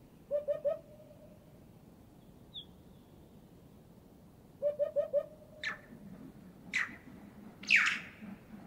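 A Eurasian hoopoe's low hooting call, three quick notes just after the start and four more about halfway through. Three loud, downward-sweeping calls from red-billed choughs follow in the second half; the last is the loudest.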